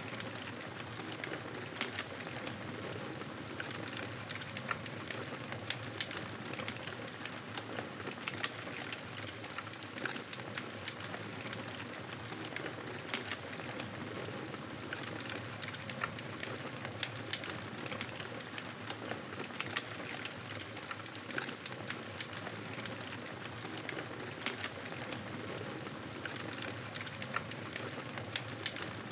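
Campfire burning: a steady hiss of flames with frequent small, irregular crackles and pops.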